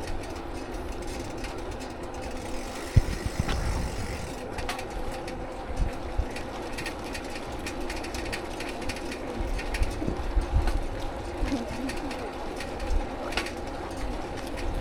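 Steady mechanical vehicle hum over a low rumble, with scattered knocks and clicks; one sharp knock about three seconds in.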